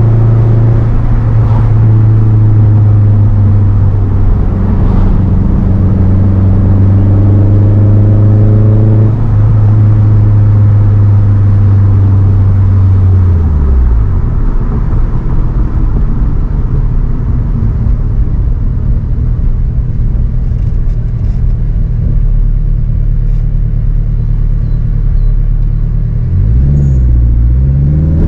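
Turbocharged Honda K20 inline-four in an Acura RSX Type-S running at steady revs. About halfway through the revs fall away to a low rumble, and near the end the engine revs up again with a rising pitch.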